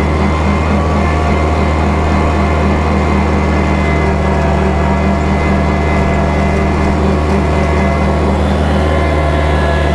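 Kubota tractor's diesel engine running steadily at a constant speed while bush hogging.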